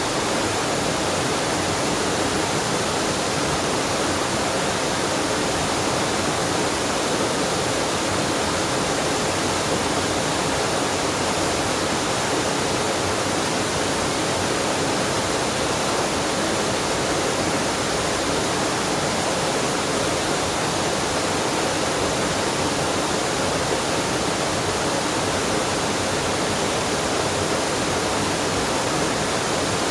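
Steady rush of water falling and flowing in a waterfall and mountain stream, an even, unbroken sound with no change in level.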